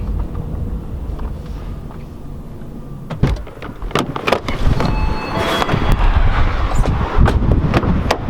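Car running on the road, a steady low rumble with several sharp knocks and clicks about halfway through and near the end.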